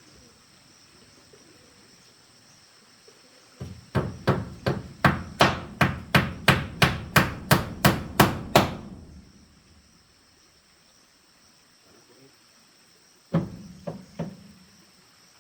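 Hammer blows: a fast, even run of about twenty strikes at about four a second lasting some five seconds, then a pause and three more strikes near the end.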